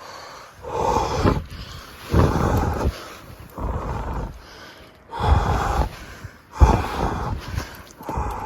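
Slow, heavy footsteps crunching through deep snow, about one step every second and a half, six steps in all.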